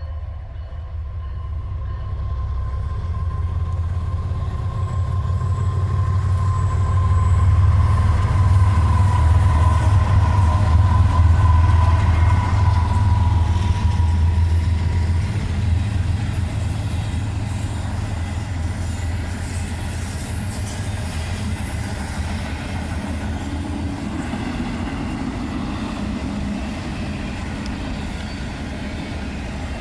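Freight train passing, its heavy low rumble building to its loudest about a third of the way through, then easing into a steady roll of cars.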